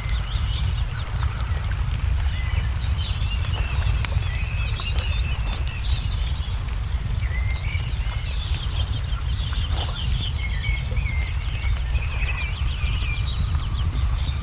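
Birds chirping and twittering throughout, mixed with the scattered sharp pops of a crackling wood fire, over a steady low rumble.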